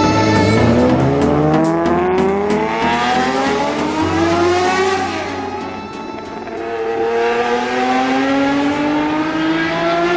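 Nissan Skyline GT-R's S20 DOHC straight-six, on triple Weber carburettors and a straight-pipe exhaust, accelerating hard with its pitch climbing. It dips about five seconds in, then pulls and climbs again.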